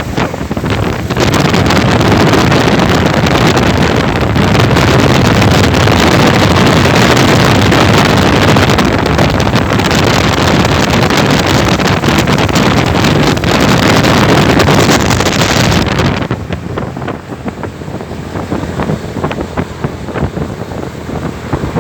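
Loud wind buffeting the microphone, with rushing noise and rapid crackle; it drops to a lower, gustier level about 16 seconds in.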